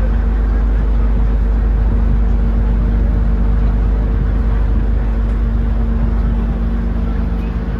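Steady engine drone during a car-ferry crossing: a deep rumble with a constant hum, unchanging and easing slightly near the end.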